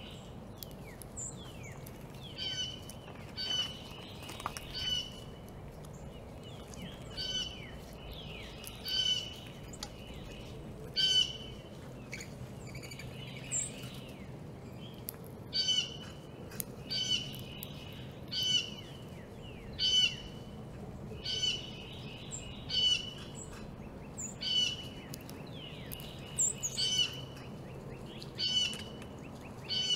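Backyard birds calling: short chirps repeated every second or two, some with a thin higher note above, over a faint steady outdoor background.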